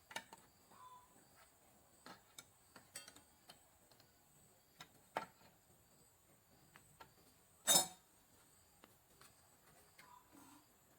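Scattered light clicks and taps of wooden pieces and tools being handled on a workbench, with one louder knock about two-thirds of the way through; the saw is not running.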